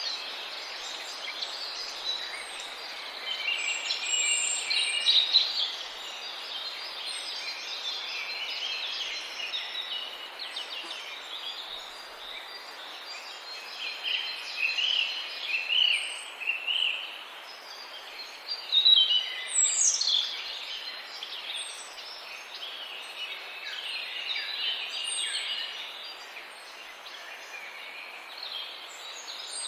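Many birds chirping and calling at once, short overlapping calls over a steady background hiss, with one call falling steeply in pitch about two-thirds of the way through.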